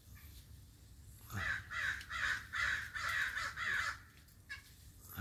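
Crow cawing: a quick run of about seven harsh caws, roughly three a second, beginning over a second in and stopping about a second before the end.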